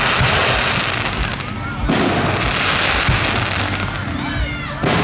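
Aerial fireworks shells bursting: two sharp booms about three seconds apart, each followed by a long crackling sizzle.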